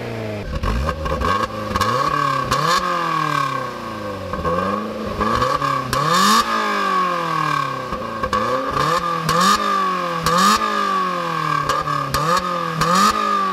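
Lotus Elise Series 2 Club Racer's engine and exhaust being blipped over and over from idle: each rev rises quickly in pitch and falls back, with sharp crackles on the way down.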